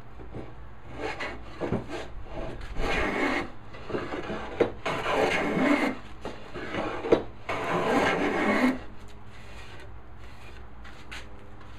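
No. 6 hand plane taking three long strokes along a walnut board, each a rasping shave of about a second, with a few light knocks of wood before them.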